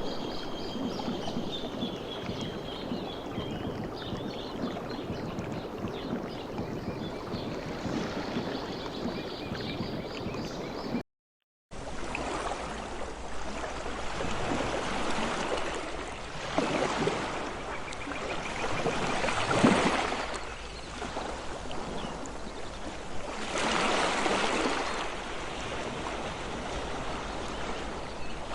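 Ocean surf: a steady wash of water, then after a brief dropout to silence about eleven seconds in, waves surging in and drawing back every few seconds. Faint bird chirps near the start.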